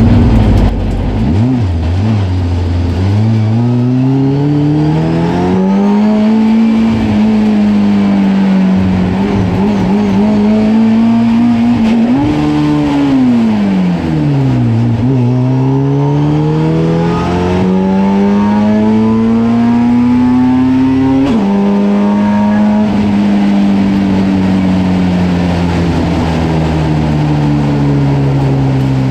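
Honda-swapped drag truck's engine pulling hard through the gears: the note climbs, drops sharply at the shifts, climbs again, then winds down near the end.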